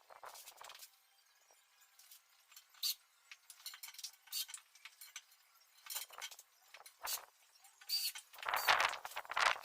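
Scattered light clinks and taps of hand work on closet hardware and panels, with a denser, louder scraping noise in the last second or so.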